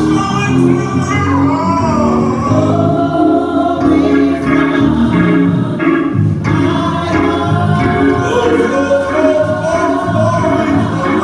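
Gospel choir singing with instrumental backing, several voices together in a steady song.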